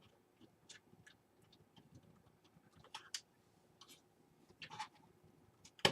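Faint, scattered small clicks and taps as a front-panel power-switch connector is handled and pushed onto the motherboard's pin header, a few a little louder near the middle and end.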